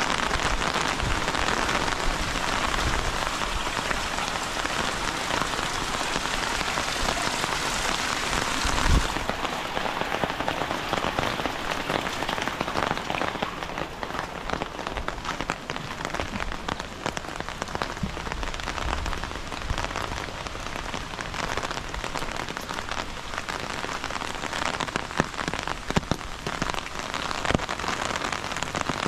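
Heavy rain falling steadily as a dense hiss, with many individual drops ticking close by. About nine seconds in there is a dull thump, after which the rain sounds softer and less bright.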